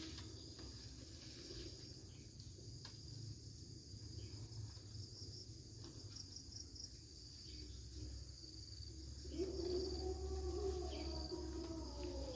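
Insects chirring steadily at a high pitch in the background. About nine seconds in, a louder, lower wavering tone joins and carries on.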